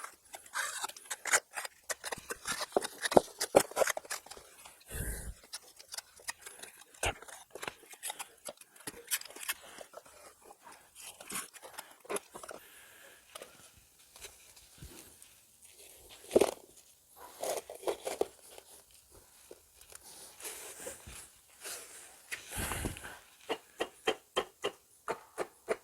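Irregular scraping, clicking and knocking of hand work on fireclay bricks being set in mastic with spatulas, with a couple of duller thuds.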